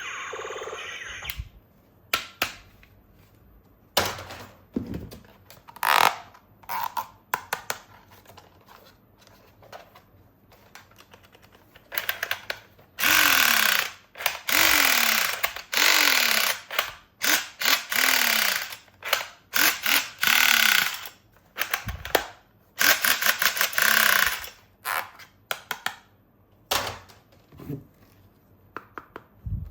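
Plastic toy weapons being handled and worked: scattered sharp clicks and snaps, then a run of about half a dozen loud rasping bursts, each roughly half a second to a second long, several carrying a short falling tone.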